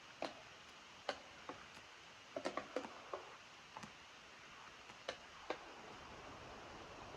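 Raindrops dripping: single sharp taps at irregular intervals, with a quick cluster of several about two and a half seconds in, over a faint steady hiss of rain.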